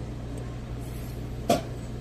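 A steady low hum with a single sharp knock, like something hard set down or tapped, about one and a half seconds in.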